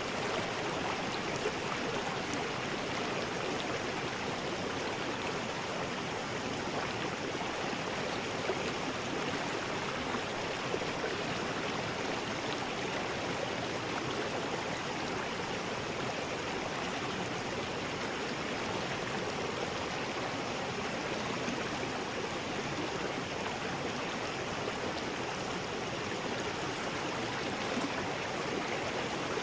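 River rapids rushing: a steady, even wash of moving water.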